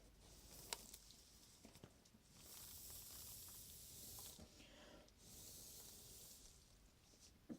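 Two faint bursts of spraying hiss, the first about two seconds long and the second about a second, with small clicks and taps between them.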